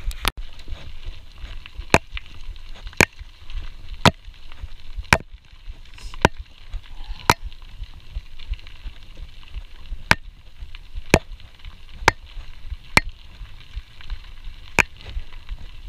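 CamelBak hydration-pack strap and drinking hose knocking against a GoPro Hero 4 housing: sharp clicks about once a second, with a pause around the middle, over a steady low rumble.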